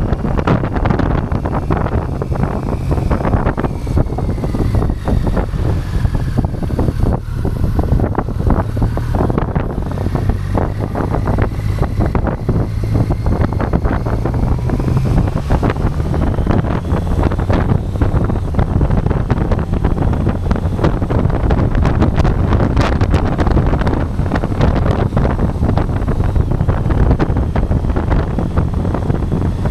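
Wind buffeting the microphone of a camera riding on a moving motorcycle, over the motorcycle's engine running. A faint whine falls and then rises again as the speed changes.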